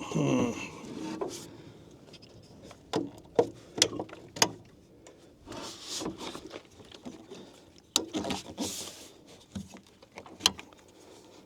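Irregular clicks and knocks of something being handled, with a few brief rustles, opening with a short sound that falls in pitch.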